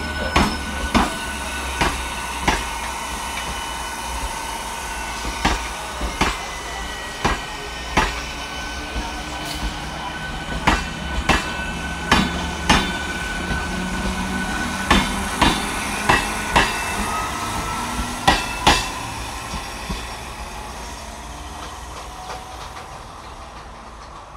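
Electric multiple-unit local train running past at close range: clickety-clack of wheels over rail joints, often in quick pairs, over a steady rumble and a thin high whine. From about two-thirds of the way through the clicks stop and the sound fades as the train draws away.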